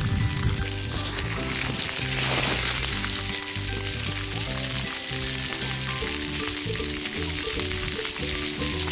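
Steady hiss of splash pad water jets spraying, with background music of held, stepping notes playing over it.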